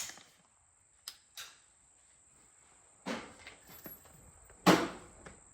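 Two short clicks, a brief rustle, then one sharp knock a little before the end, like handling noise against the microphone.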